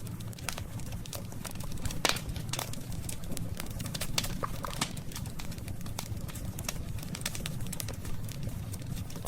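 Campfire of burning wood crackling, with frequent sharp pops over a steady low rumble of the flames; the strongest pop comes about two seconds in.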